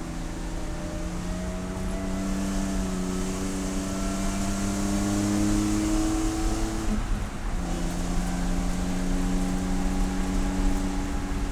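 Race car engine pulling under load, its pitch climbing slowly for about seven seconds, then dropping abruptly and holding steady for the rest.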